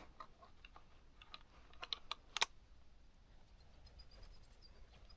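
A scatter of faint clicks and ticks, the loudest a sharp click about two and a half seconds in, followed by a faint run of small high peeps.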